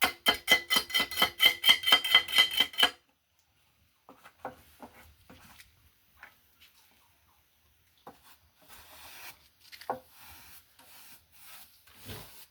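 A trowel scraping rapidly back and forth over wet cement while the surface is finished, about six strokes a second for roughly three seconds, with a faint ringing. Then come scattered quieter scrapes and taps.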